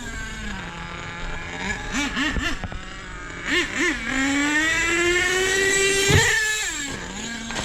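Nitro RC truck engine idling with a few quick throttle blips, then revving up with a steadily rising pitch for about two seconds. It is cut short by a sharp knock about six seconds in, and the engine drops back to a low idle.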